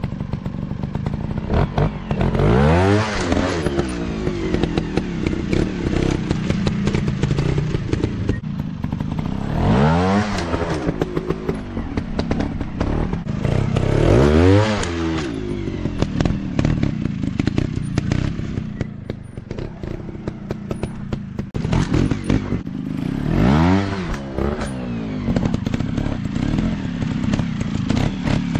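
Off-road motorcycle engines running, the throttle opened hard four times into a rising-then-falling rev, with clattering and thumps in between.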